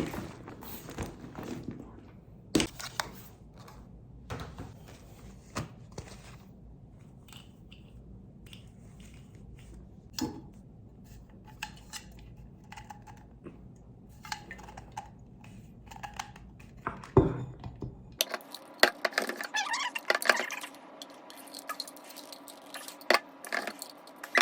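Scattered clicks, knocks and rustles of small objects being handled over a low background hum. About 18 seconds in the hum cuts off and the clicking and clattering become denser and brighter.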